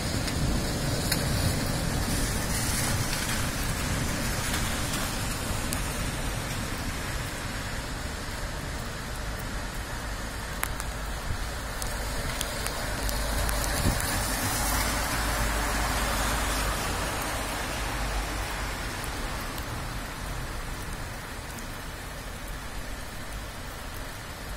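Steady hiss of a thundery downpour, with a low rumble about halfway through; the rain eases slightly near the end.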